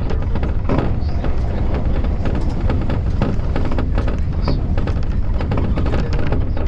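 Keio Inokashira Line commuter train running on the track, with a steady heavy rumble and a dense run of knocks and clacks from the wheels and rails, and two brief high squeaks.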